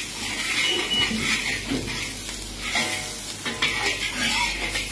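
Chopped onion and garlic sizzling in hot oil in a wok, stirred around the pan with a long-handled metal ladle. The sizzle is a steady hiss with a few light clinks of metal on metal.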